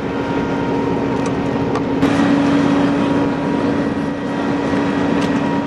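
A vehicle engine idling: a steady hum over constant noise, with a few faint clicks.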